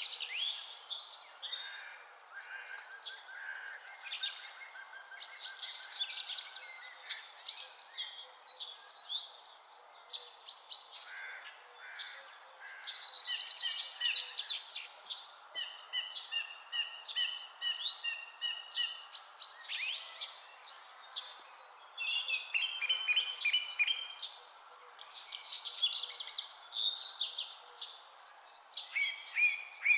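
Several songbirds singing and calling over one another: quick chirps, rapid trills and short repeated whistled phrases, over a steady soft hiss.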